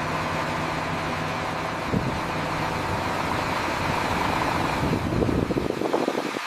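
Machinery running steadily, a hum with a deeper rumble and irregular knocks joining about two seconds in, the rumble dropping away near the end.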